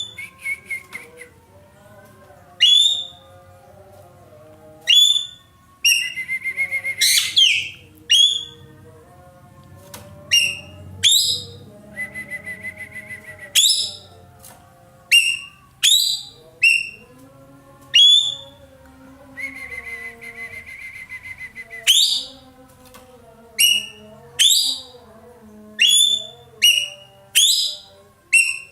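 Ekek keling bird calling loudly in a long series of sharp, down-slurred whistles, one every second or two. Three times the whistles give way to a buzzy, rattling trill lasting one to two seconds.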